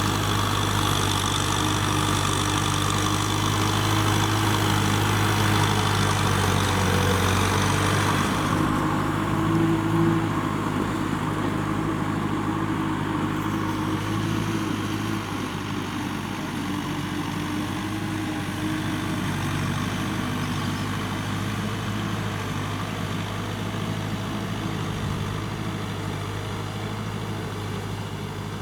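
Kubota M6040SU tractor's diesel engine running steadily; the higher hiss over it drops away about eight seconds in.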